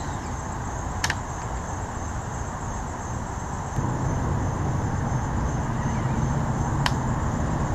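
Outdoor background of insects trilling steadily, high-pitched, over a low steady rumble that grows stronger about four seconds in, with two brief clicks.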